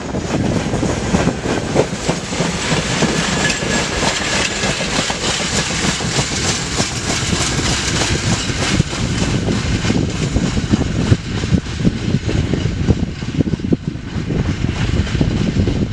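Long freight train of open-top wagons rolling along the track, a continuous rumble with rapid irregular clatter from the wheels, and wind buffeting the microphone.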